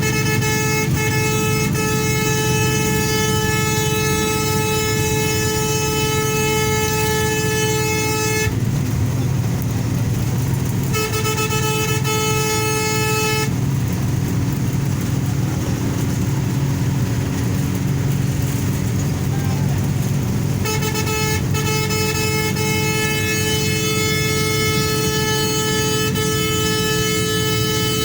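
A vehicle horn held in long, steady blasts of one unchanging pitch, three times: about eight seconds at the start, a shorter blast of two to three seconds, and a long one of about seven seconds near the end. Each starts and stops abruptly over a continuous low rumble of traffic on the highway.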